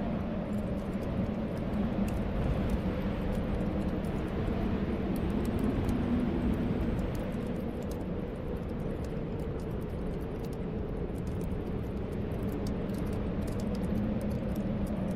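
Snowstorm wind blowing steadily, with a low howl that swells and fades every few seconds, and fine crackles from a fireplace scattered throughout.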